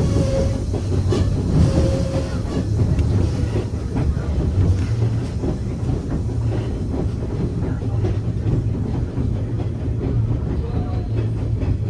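Narrow-gauge passenger train running, heard from aboard a railcar: a steady low rumble of wheels on the track with faint clickety-clack.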